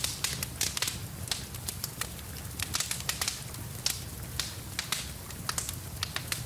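Wood fire in a fireplace crackling, with many irregular sharp pops several times a second over a steady low rumble.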